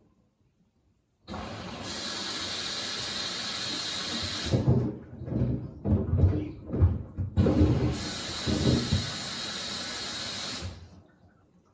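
Washing machine taking in water: a steady rushing hiss of water filling the drum that starts abruptly and cuts off near the end, with a run of irregular low thuds in the middle.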